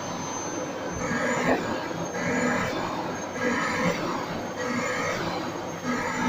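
Vacuum cleaner running, with a thin steady high whine over a rushing noise that swells and eases rhythmically about once a second.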